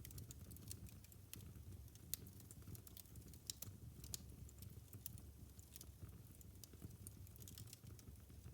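Wood fire crackling and popping in a fireplace: irregular sharp pops, a few louder ones, over a low rumble of the flames.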